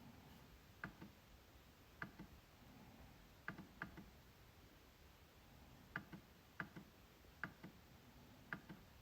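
MacBook trackpad being clicked: about ten short, sharp clicks at irregular intervals, some in quick pairs a fraction of a second apart.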